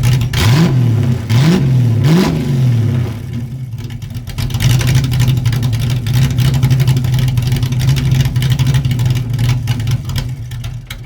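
Cammed Ford 5.0 V8 through a catless H-pipe and Flowmaster 10 dual exhaust, blipped in three quick revs in the first couple of seconds, then idling steadily. The sound cuts off suddenly near the end.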